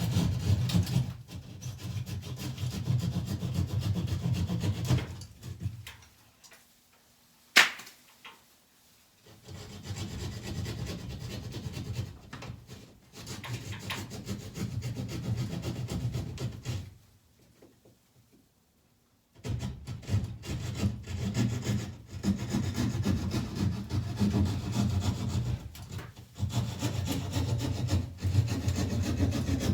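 Hand saw cutting through board with quick back-and-forth strokes, in three long runs separated by short pauses. A single sharp click comes between the first and second runs.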